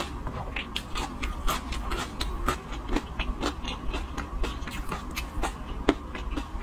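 Close-miked chewing: wet mouth clicks and smacks at irregular spacing, a few each second, over a low steady hum.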